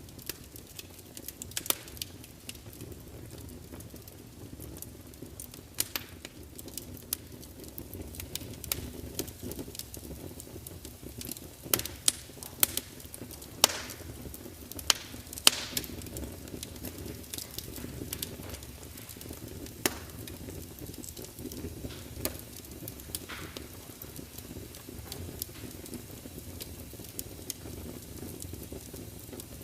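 Log fire burning in a large open fireplace: a steady low rumble of flame with irregular crackles and sharp pops from the logs, a cluster of louder pops about halfway through.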